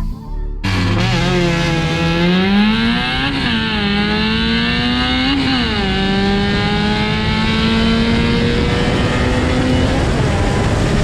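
Car engine accelerating hard through the gears: the note climbs, drops sharply at two shifts about two seconds apart, then climbs slowly in the next gear. It starts abruptly about half a second in.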